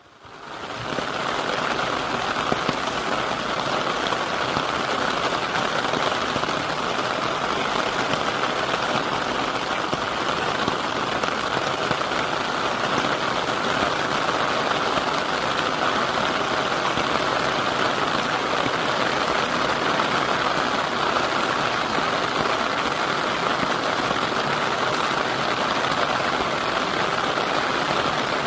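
Heavy typhoon rain pouring steadily, a dense even hiss that fades in over the first second and then holds without change.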